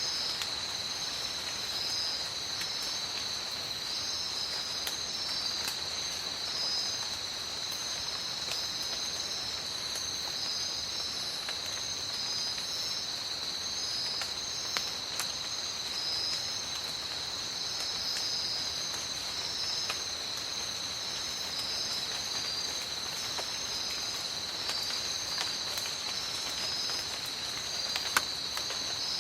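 Steady rain in a tropical forest, pattering as many fine drops, under a constant high insect drone and a second insect chirping in short, repeated pulses. One sharper drop or tap stands out near the end.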